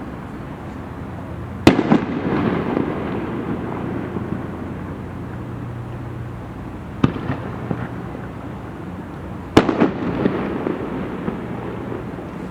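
Aerial fireworks shells bursting: a loud bang about two seconds in, a smaller one about seven seconds in and another loud one near ten seconds, each followed by crackling and a rumbling echo.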